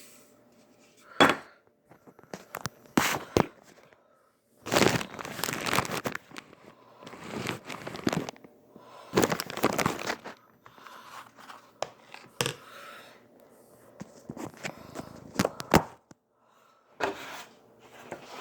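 Irregular rustling and crinkling, like packaging being handled or torn, broken by several sharp knocks.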